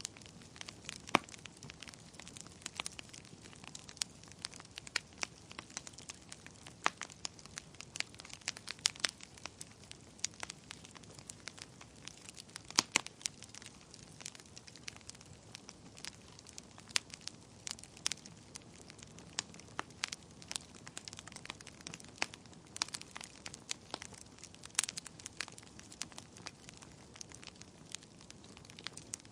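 Wood fire burning in a fireplace: irregular sharp crackles and pops over a soft steady hiss, with a few louder snaps, one about 13 seconds in.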